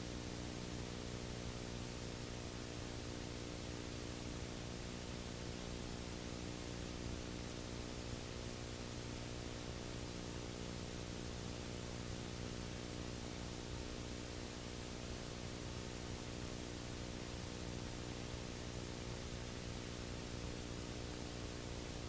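Steady hiss with a buzzing electrical hum underneath and nothing else: the background noise of an old recording with no program sound.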